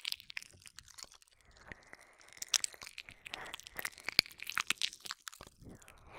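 Close-up ASMR mouth sounds: wet licking, with many sharp, irregular tongue and lip clicks and soft breathy stretches between them.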